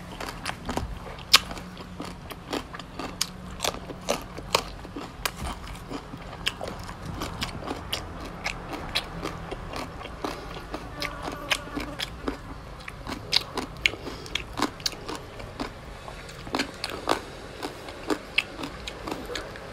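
A person chewing and crunching a mouthful of green papaya salad, with many irregular sharp crunches and clicks of the mouth.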